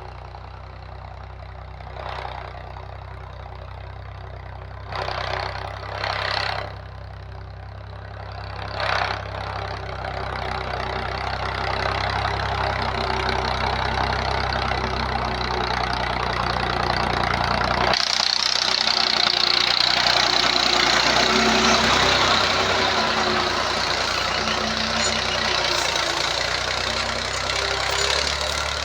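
Tractor engine running steadily, with a few brief louder swells in the first ten seconds. About eighteen seconds in, the low engine note drops away and a louder, higher hissing noise takes over.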